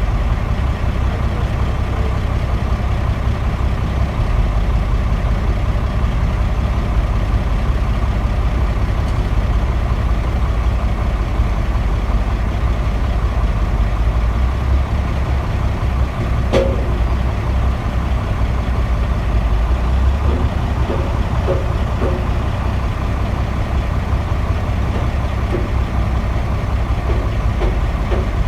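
Heavy diesel engine running steadily, a deep rumble with a steady whine above it. One sharp click comes about sixteen seconds in.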